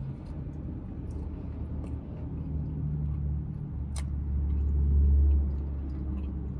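Low rumble of a motor vehicle that swells to its loudest around five seconds in and then eases off, with a single sharp click about four seconds in.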